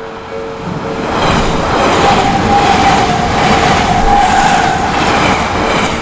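An Odakyu electric train passing over the level crossing: its running noise swells from about a second in and holds, with a steady whine in it, then eases near the end. The crossing's two-tone warning bell keeps clanging under it, about twice a second.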